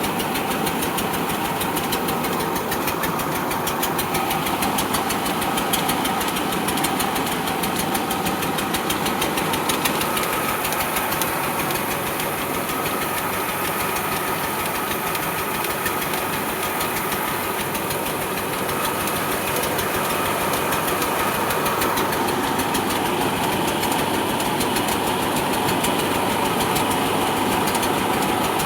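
Tractor's diesel engine running steadily, with a rapid, even beat.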